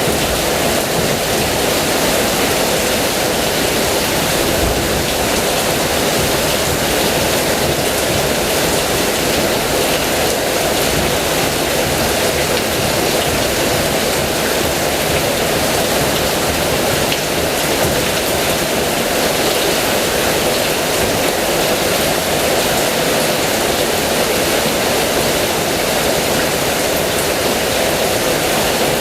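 Heavy rain falling steadily, a dense even wash of noise.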